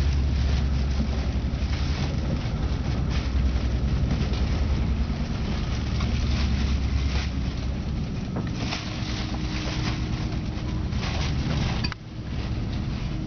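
Regional express train running along the line, a steady low rumble with scattered clicks and knocks from the running gear. The deep hum eases partway through, and the sound drops sharply for a moment near the end.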